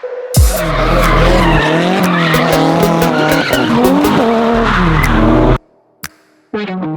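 Car tires squealing in a long, wavering screech over a running engine, cut off suddenly about five and a half seconds in.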